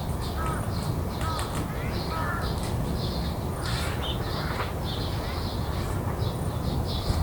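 Crows cawing a few times in the first couple of seconds, over steady high chirping and a constant low city rumble.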